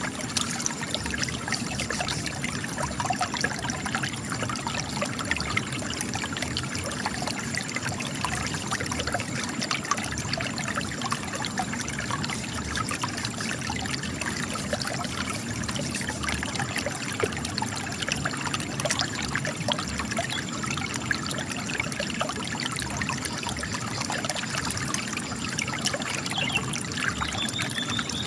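Spring water trickling and splashing steadily out of cracks in rock, a dense patter of small splashes over a continuous rush.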